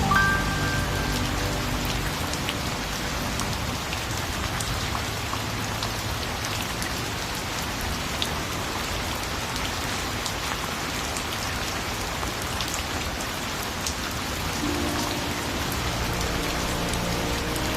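Steady rain falling on a surface, an even hiss with scattered drops pattering. The last held notes of a hymn's accompaniment fade out about a second in, and soft instrumental music begins again near the end.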